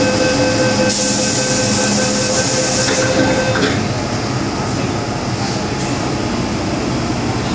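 Interior of an MTR M-Train on the Tseung Kwan O line: the door-closing warning tone sounds for about three and a half seconds, with a burst of hiss in the middle as the doors close. Then the tone stops and the steady rumble of the train goes on.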